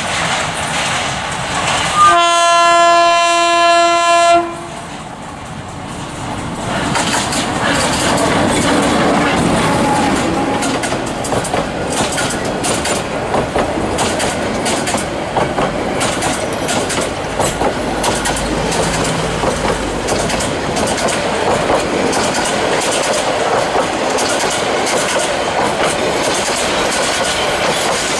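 A passing diesel locomotive sounds its horn: one steady blast of about two and a half seconds, starting about two seconds in. Then the passenger coaches roll past with a steady rumble and the clickety-clack of wheels over the rail joints.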